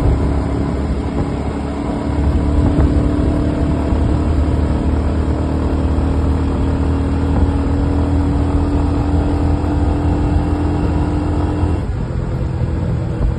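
Royal Enfield Hunter 350's single-cylinder engine running with a steady, deep exhaust note; about twelve seconds in the note changes.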